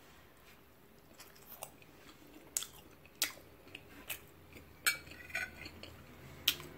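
A person chewing a mouthful of food: quiet chewing with sharp, wet mouth clicks and smacks about once a second.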